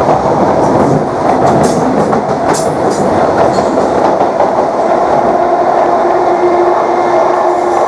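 Class 321 electric multiple unit running, heard on board: a loud, steady roar of traction motors and wheels on the rail, with a few sharp clicks in the first few seconds and a steady whine coming in about five seconds in.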